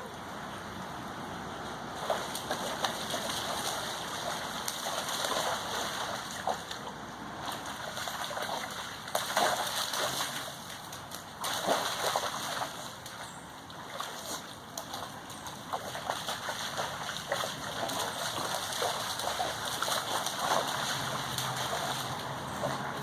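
Rain falling, a steady wash of water noise with irregular louder splashes throughout.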